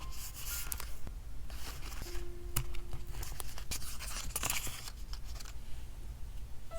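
Paper and sticker handling during journal decorating: several short bursts of crisp rustling, scraping and tearing or cutting, with a few sharp clicks in between.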